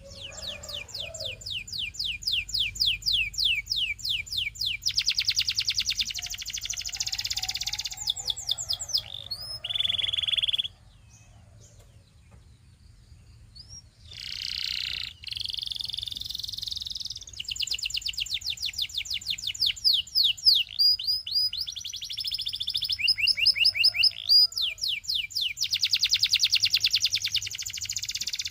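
Canary singing: long fast trills of rapidly repeated high notes and quick sweeps, breaking off for about three seconds near the middle before the song starts again.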